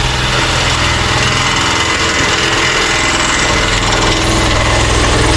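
Power drill running steadily under load, boring out a screw hole with a drill bit.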